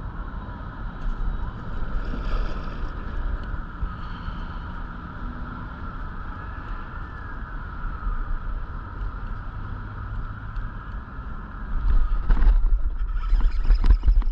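Wind buffeting the microphone with a steady low rumble, growing heavier about twelve seconds in, with a few sharp knocks near the end and a faint steady whine underneath.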